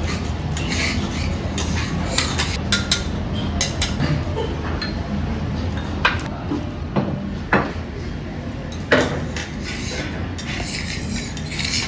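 Clinking and scraping of metal utensils against dishes, irregular sharp clinks over a steady low hum.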